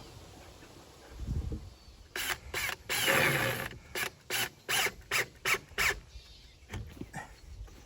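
Cordless drill driving screws into a wooden board in short trigger pulls, its motor whining up and down: one longer run about three seconds in, then a quick string of about six short bursts.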